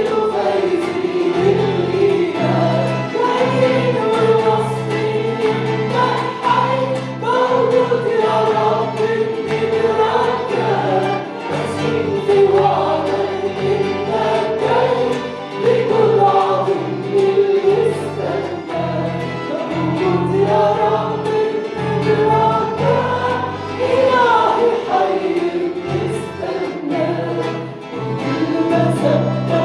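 Congregation singing an Arabic worship hymn together with instrumental accompaniment, a steady bass line under the melody.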